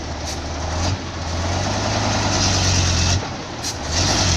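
Heavy vehicle's engine running hard under load, with a steady low drone that swells, eases off briefly about three seconds in, then picks up again.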